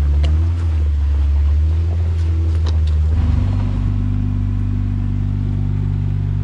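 Jeep engine revving hard under load on a trail obstacle, with a few sharp knocks, then dropping to a steady lower running note about three seconds in.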